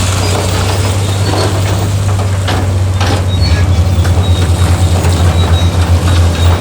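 Heavy diesel engine of earthmoving machinery running with a strong low drone that starts to throb rhythmically about halfway through, with a few short metallic clanks in the first half.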